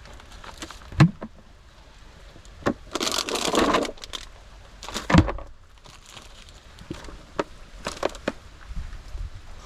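Handling noises: a few sharp knocks and thumps, with a brief crinkling rustle about three seconds in and light clicks later on.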